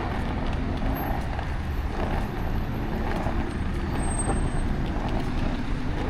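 Steady city street traffic noise, with vehicle engines running, and a brief faint high squeal about four seconds in.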